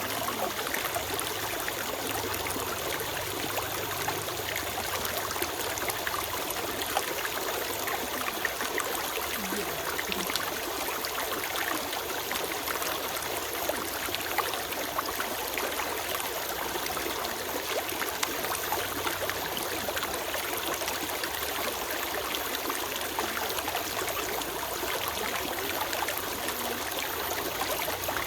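Small stream flowing steadily over rocks, a continuous trickle and babble of water with small splashes.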